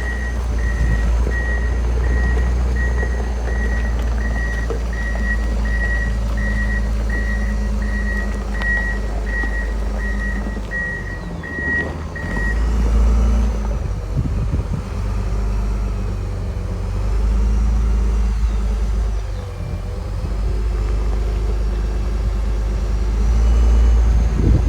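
John Deere 672G motor grader's diesel engine running, with its backup alarm beeping about twice a second until it stops about 12 seconds in; after that the engine rises and falls in level several times as the machine works.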